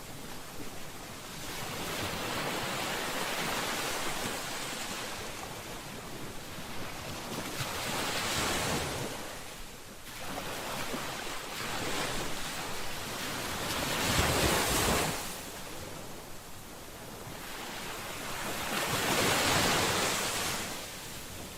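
Ocean waves washing in, a steady rush that swells and fades every few seconds, the strongest surges coming about two-thirds of the way through and near the end.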